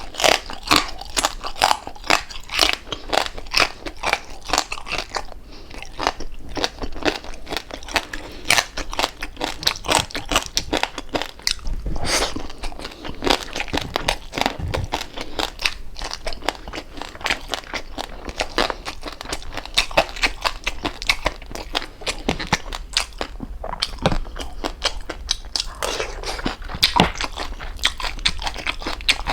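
Close-miked chewing and biting of crispy deep-fried pork jowl: a dense, continuous run of crackly crunches.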